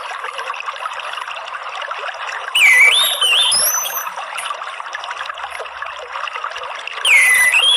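Water trickling steadily, with an orange-headed thrush's whistled song phrase twice over it, each a short whistle that dips and then rises, about two and a half seconds in and again near the end.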